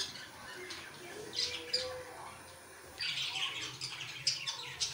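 Birds chirping and squawking, in short calls about a second and a half in and a denser spell from about three seconds.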